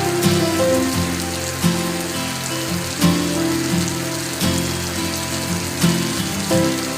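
Heavy rain falling steadily, with background music underneath striking a new low note or chord about once a second.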